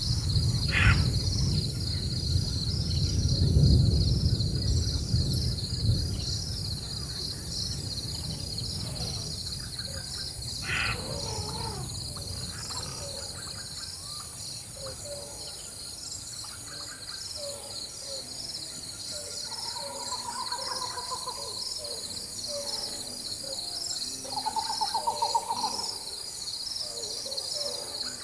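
Rainforest soundscape: distant thunder rumbles over the first few seconds beneath a steady, pulsing chorus of insects, with scattered bird calls and two short rapid trills later on.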